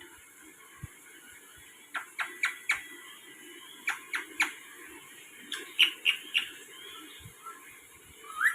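Parrot giving short, sharp calls in three quick runs of three or four, then a single rising call near the end.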